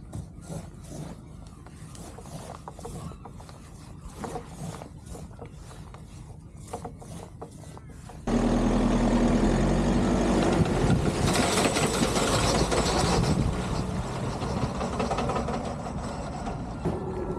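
Tohatsu outboard motor on a small inflatable boat, running loud and steady from about eight seconds in, where it comes in suddenly. Before that, a quieter stretch of irregular knocks and clicks.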